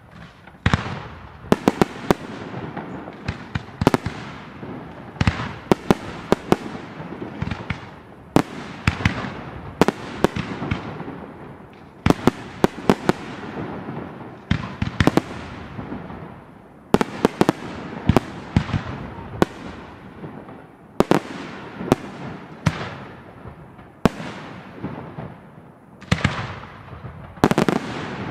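Fireworks display: aerial fireworks bursting one after another with sharp bangs, singly and in quick clusters, each bang trailing off in a fading echo.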